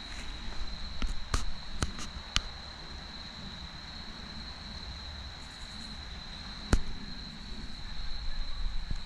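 Crickets trilling steadily at a high pitch, with a few sharp clicks about a second in and one louder click past the middle.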